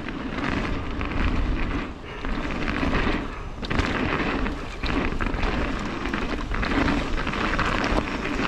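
Wind rushing over the microphone and mountain-bike tyres rolling over a dirt trail at speed, a dense rumbling noise that swells and dips.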